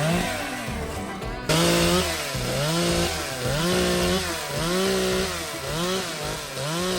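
Two-stroke chainsaw cutting wood, starting loudly about a second and a half in, its engine pitch rising and falling about once a second as it revs and bogs under load in the cut.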